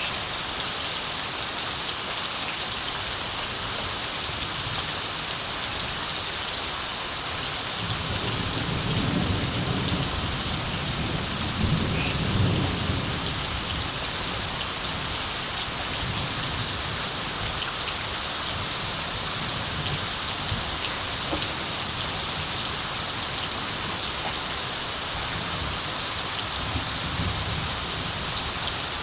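Steady heavy rain hissing, with distant thunder rumbling low and soft, swelling for several seconds about a third of the way in and faintly again near the end.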